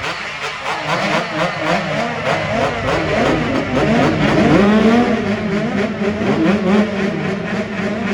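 Several motocross race engines on the track revving up and down as riders accelerate and shift, their notes overlapping. About halfway in, one engine holds a steadier, louder note.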